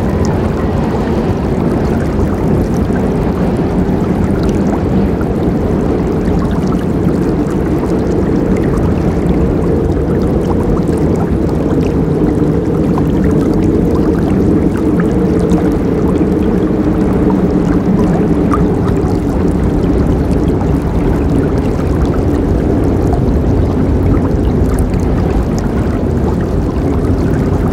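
River water flowing steadily: a constant low rushing, with faint small splashes above it.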